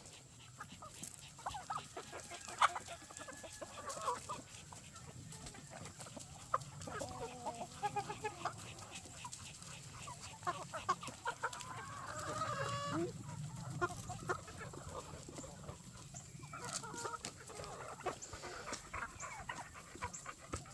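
Chickens clucking, with many short calls scattered through and a longer call about twelve seconds in.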